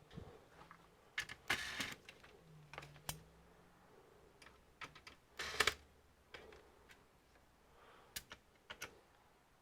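Scattered light clicks with two brief scraping rattles, from small parts and tools being handled while taking apart an all-in-one computer.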